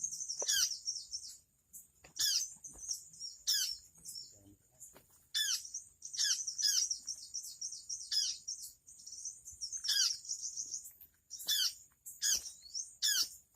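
Small birds calling: bursts of high, quick chirps that sweep down in pitch, coming in clusters every second or two.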